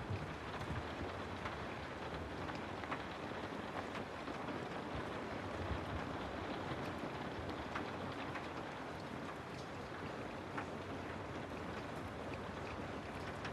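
Steady rain falling, an even hiss with scattered faint sharp drop ticks.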